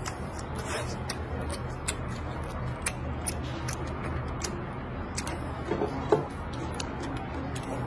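Close-up chewing of crunchy food: irregular crisp crunches and mouth clicks, with a louder click about six seconds in, over a steady low hum.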